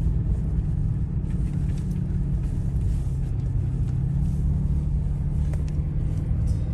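Car engine and road noise: a steady low rumble.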